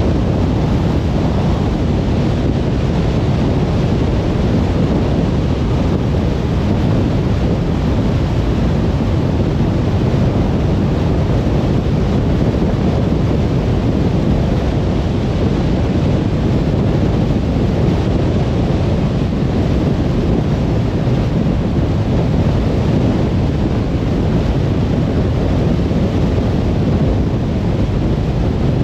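Steady low rumble of a car driving at motorway speed: tyre and wind noise, unchanging throughout.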